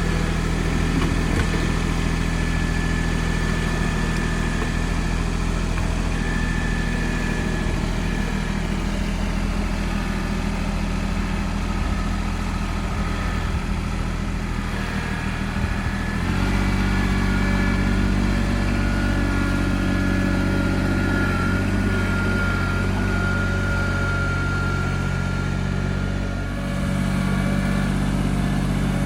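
Compact John Deere tractor's diesel engine running steadily, with a high whine above it. About halfway through, the engine note steps up to higher revs, as when working under load.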